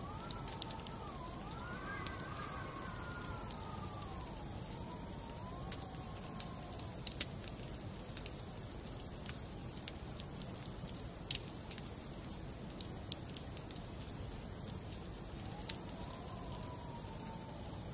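Wood fire in a fireplace crackling, with frequent sharp pops and snaps over a low steady rumble. A faint wavering whistle-like tone rises and falls in the first few seconds and returns near the end.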